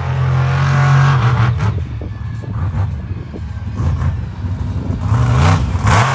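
Monster truck engine running loud, holding a steady note at first, then going rough and revving up about five seconds in.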